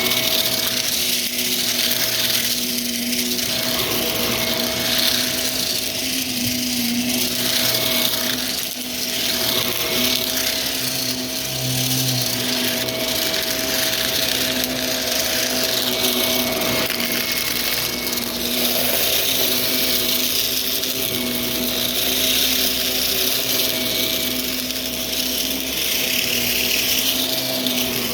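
Vacuum cleaner running steadily with its brushroll: a constant motor whine over rushing air, the hiss swelling and easing a little as it moves.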